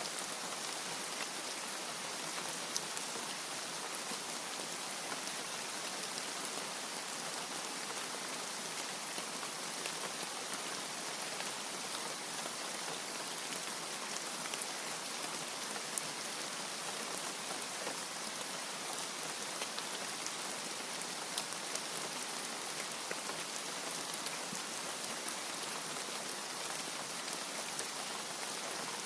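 Steady heavy rainfall, an even hiss of many drops with scattered sharper drop ticks standing out now and then.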